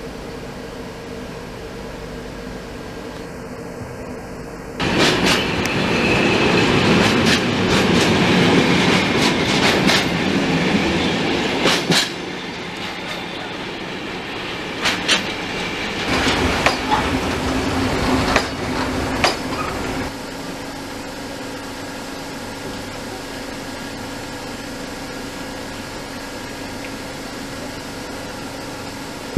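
Serbian Railways class 412 electric multiple unit running on the track, heard from on board: a steady hum, then from about five seconds in a sudden louder rush with the clack of wheels over rail joints. It eases after about twelve seconds, with a few more clacks, and settles to a steady lower hum from about twenty seconds in.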